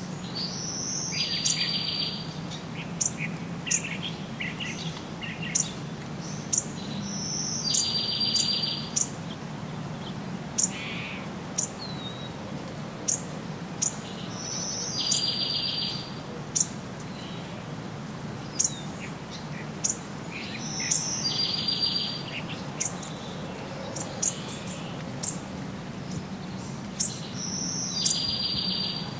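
Birds calling in forest. A short high note followed by a buzzy trill of about a second repeats five times, roughly every seven seconds. Sharp high chip notes come in between, over a steady low hum.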